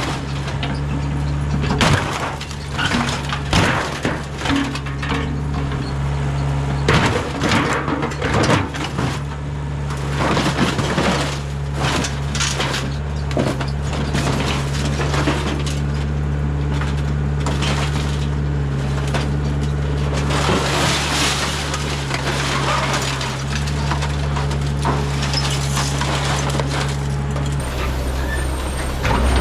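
Diesel engine of a mini excavator running steadily while scrap metal crashes and clatters in repeated, irregular impacts, as in loading scrap. The engine note changes about two seconds before the end.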